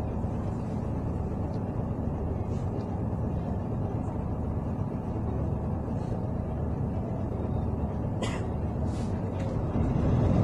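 City bus engine and road noise heard from inside the passenger cabin, a steady low rumble. A short hiss comes about eight seconds in, and the rumble grows louder near the end.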